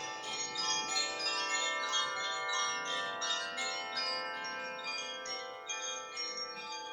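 Koshi chimes ringing continuously: tuned metal rods in a bamboo resonating tube, struck again and again by the inner clapper, so that many bright overlapping tones build up and sustain, rich in overtones.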